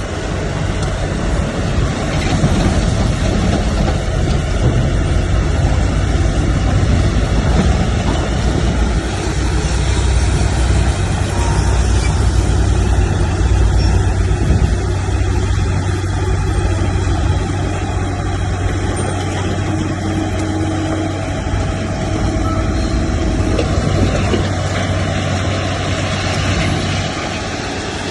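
Diesel engine of heavy earthmoving machinery running steadily under load, with a strong low hum throughout.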